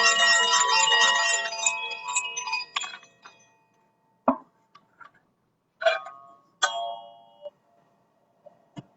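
Metal chimes ringing: a dense cluster of ringing tones fades out over the first three seconds, then single chime strikes come about four, six and seven seconds in, each ringing on, with two light taps near the end.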